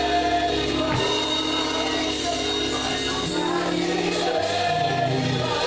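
Live gospel worship music: a band plays sustained chords over a held bass, with cymbals and some singing.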